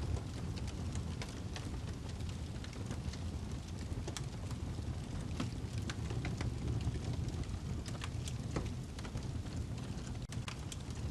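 Wood fire burning in a fireplace: a steady low roar of flames with frequent sharp crackles and pops from the burning log.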